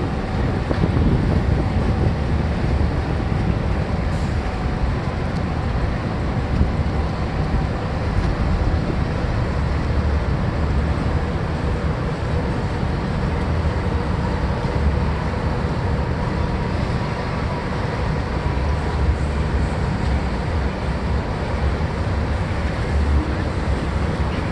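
Boat engines running with a steady low rumble, mixed with wind noise.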